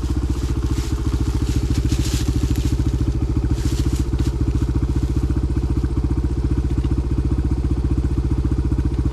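Small dirt bike engine idling steadily at an even, unchanging pitch with a fast regular pulse.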